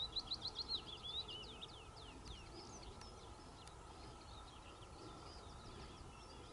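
Small songbird singing: a fast run of short, high, downward-sweeping notes for about the first two seconds, then scattered chirps, over a low steady outdoor rumble.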